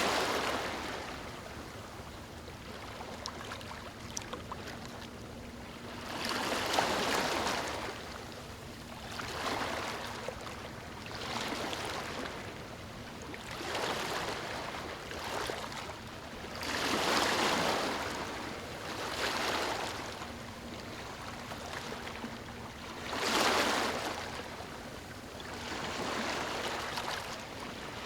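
Small waves lapping on a beach, each washing in and drawing back as a soft hiss every two to three seconds, some swells louder than others.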